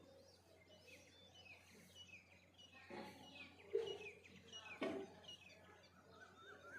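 Faint songbirds chirping in a dawn chorus: a steady scatter of short, downward-sliding chirps, with a couple of brief knocks about 3 and 5 seconds in.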